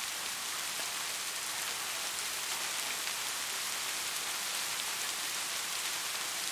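Rain falling steadily: an even hiss with scattered faint drop ticks.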